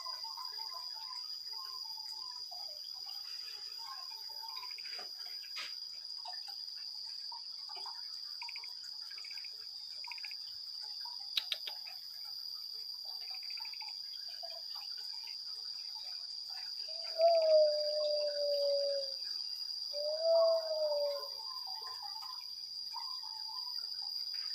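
Black-capped lory calling: soft repeated chirps, then two loud falling whistles about two-thirds of the way in, each a second or two long. A steady high-pitched drone runs underneath.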